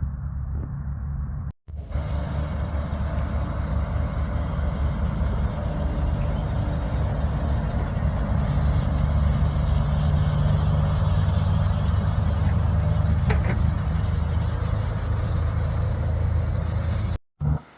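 Heavy truck diesel engines running as trucks drive along a road, a steady rumble with tyre and road noise. It cuts out briefly about a second and a half in and again near the end, where one clip changes to the next.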